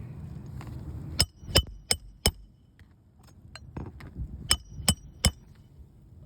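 Hammer blows on metal, driving a roofing nail into asphalt shingles: four sharp ringing strikes in quick succession, a few light taps, then three more strikes.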